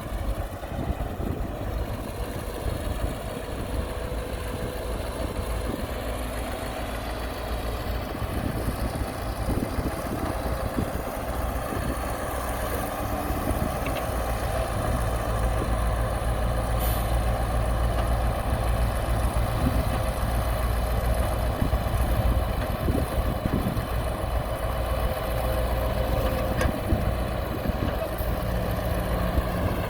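Heavy construction machine's diesel engine running steadily, getting somewhat louder about halfway through.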